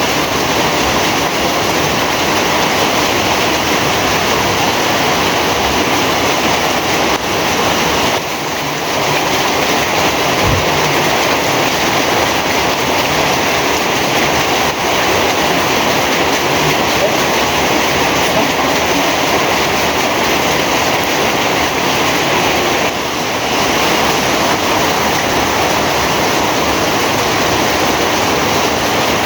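Heavy rain pouring down in a dense, steady hiss, easing for a moment twice.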